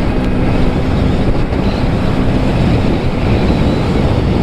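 Wind rushing over the camera microphone on a moving motorcycle at highway speed, with road and engine noise underneath: a steady, loud rumble.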